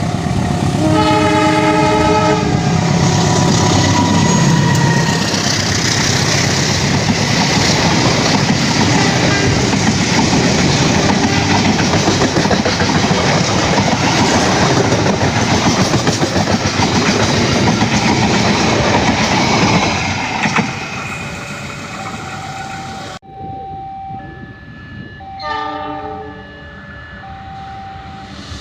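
A train horn sounds about a second in, then a train passes close by with a loud, steady run of rumble and wheel clatter for nearly twenty seconds. Near the end the sound drops away suddenly and another, quieter horn blast follows.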